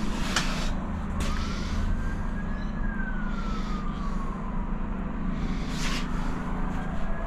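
Emergency vehicle siren wailing, a single tone rising and falling slowly about every four seconds, over a steady low hum, with a few sharp knocks.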